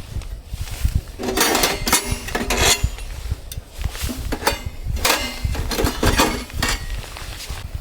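Metal cookware and utensils clinking and rattling in two bursts of handling, over a steady low rumble of wind on the microphone.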